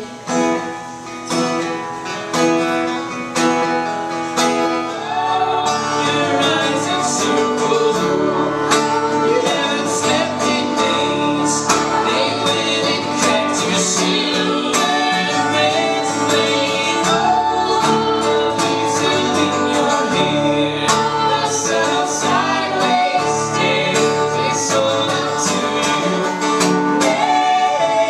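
Acoustic guitar music with singing, a country-folk style song; it fills out with a lower part from about five seconds in.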